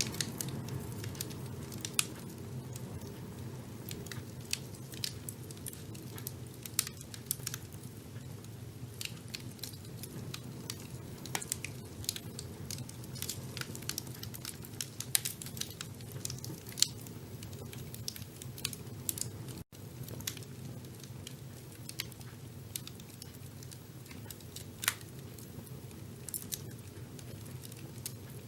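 Wood fire burning in a fireplace: a steady low rumble of flame with frequent, irregular crackles and sharp pops, a few of them much louder than the rest.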